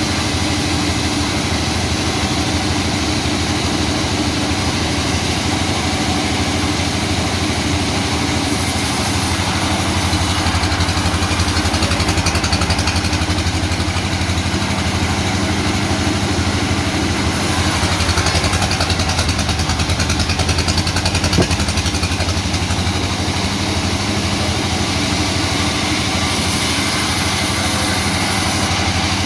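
Sawmill machinery running steadily with a low engine drone, while rubber-wood logs are sawn. Three times a brighter hiss rises over the drone for a few seconds, in the middle and near the end.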